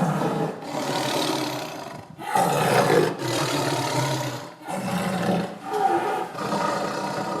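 Tiger roaring: a string of loud roars, each about a second long, with short breaks between them.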